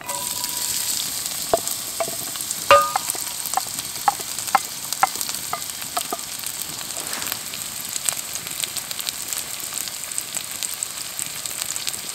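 Diced onion sizzling as it fries in hot oil in a cast iron Dutch oven, the sizzle starting at once as the onion goes in. Several sharp clinks come through it, the loudest about three seconds in.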